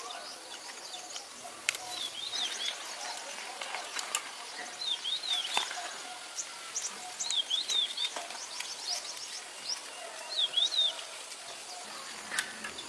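A bird calling a short high phrase of quick down-and-up notes, repeated about every two and a half seconds, over outdoor background noise. A few sharp clicks come in between.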